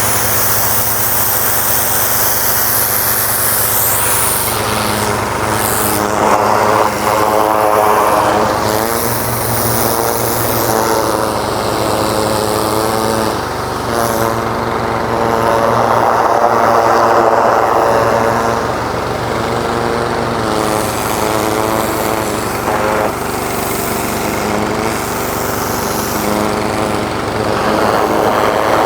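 An engine running steadily, its note swelling louder twice for a few seconds.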